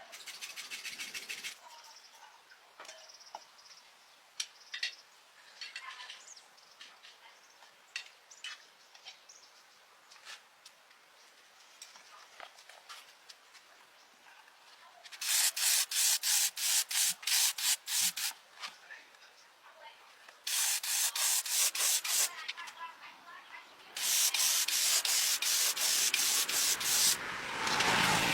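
Abrasive hand scrubbing on a hard surface: runs of quick back-and-forth strokes, several a second. Light scrapes and taps come first, and denser, continuous scraping follows near the end.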